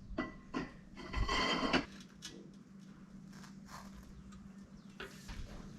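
Metal hand tools being handled while a seized fastener is worked on: a few clinks and knocks and, about a second in, a longer metallic scraping rattle, over a steady low hum.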